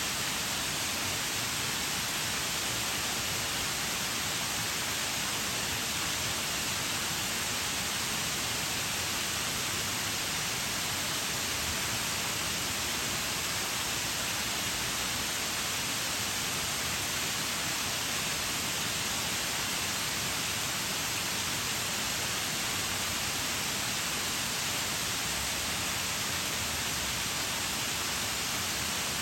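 Waterfall: water falling and splashing in a steady, unbroken rush, with a strong high hiss.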